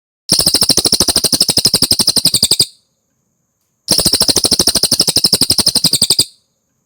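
A cililin singing two rapid, evenly pulsed high trills, each about two and a half seconds long, with a second of silence between them. It is a masteran recording for tutoring songbirds.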